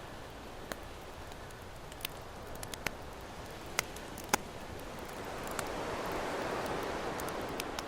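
Campfire crackling with scattered sharp pops over the steady wash of ocean waves; a wave swells up about five seconds in and rolls in, easing near the end.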